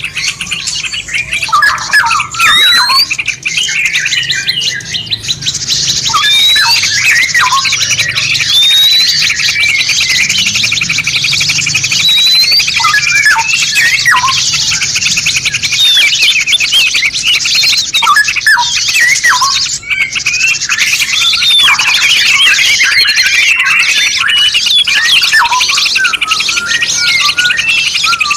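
Several songbirds singing at once, a dense tangle of chirps and quick rising whistles, over a steady high hiss.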